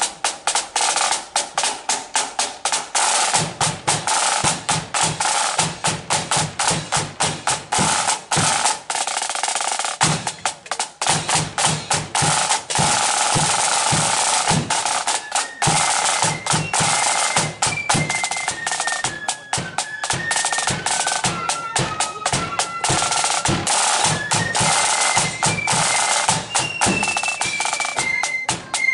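Marching flute band's drum corps: snare drums playing a rapid rolling march beat, with a bass drum joining a few seconds in. About halfway through, the flutes come in with a melody over the drums.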